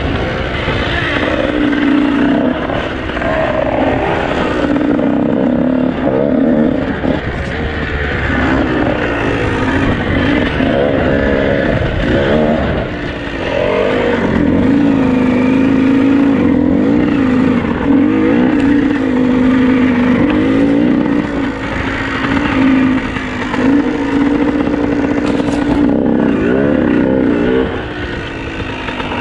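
Dirt bike engine running on a rough trail, its revs rising and falling with the throttle and dropping briefly several times.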